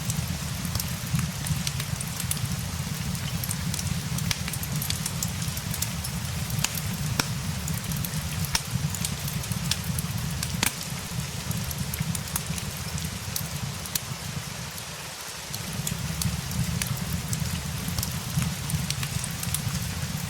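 Steady rain layered with a crackling fireplace: an even hiss with scattered sharp crackles and pops over a low rumble, which drops out briefly about fifteen seconds in.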